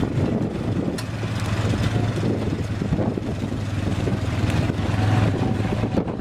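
ATV engine running steadily, with a sharp click about a second in.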